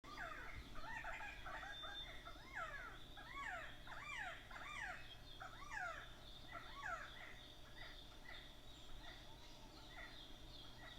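Recorded bird calls: many overlapping calls that rise and fall in pitch, crowded at first and thinning out after about seven seconds, over a faint steady high tone.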